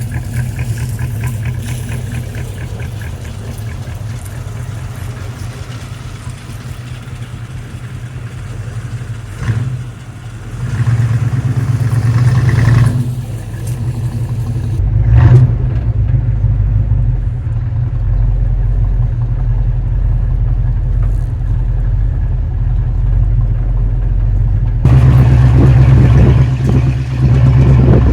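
A car engine running, heard in several clips cut together, with abrupt jumps in sound about halfway through and near the end.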